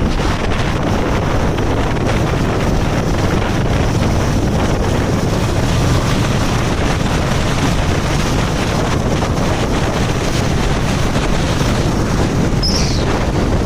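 Steady wind rush buffeting the microphone on a moving motorcycle, with vehicle and road noise underneath. A brief high squeak falls in pitch near the end.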